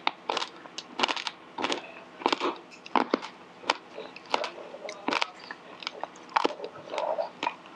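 Mouth-close chewing of hard, uncooked Indonesian shrimp crackers (krupuk udang) that should have been deep-fried first: loud, crisp crunches in a steady rhythm, about one every two-thirds of a second.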